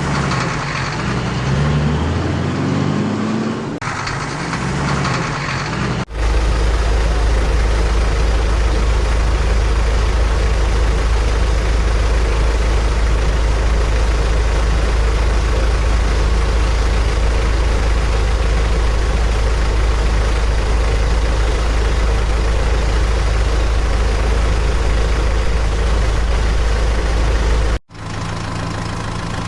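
Heavy vehicle engine sound effects. For the first six seconds an engine revs, its pitch rising and falling. Then a steady, loud, deep diesel-like rumble runs for about twenty seconds, cuts out briefly near the end, and gives way to a quieter steady engine tone.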